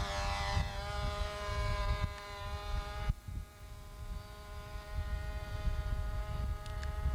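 Small model-airplane engine running with a steady, high-pitched drone. Its upper tones drop away abruptly about three seconds in. Wind rumbles on the microphone underneath.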